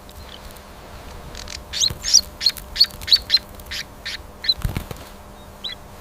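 Small bird chirping in a quick run of short calls, about three a second, with wings flapping.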